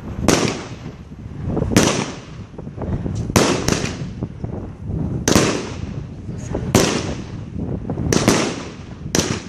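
Class 4 firework battery firing 30 mm shots: a sharp bang every second or so, a couple in quick pairs, each fading away after it.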